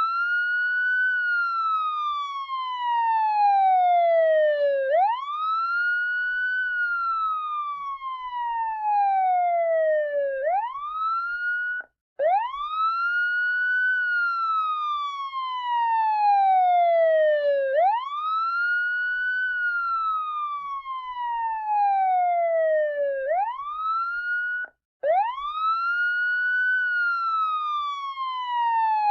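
Siren wailing in a repeating cycle: the pitch rises fast, then falls slowly over about four seconds, again and again, with two very short breaks in the sound.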